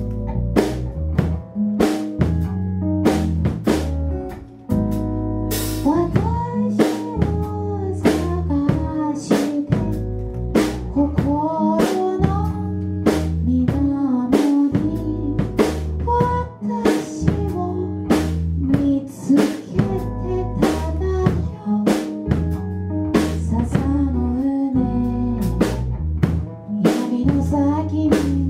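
Band music: a drum kit keeping a steady beat with snare and bass drum, under a bass line and a melody line that bends in pitch.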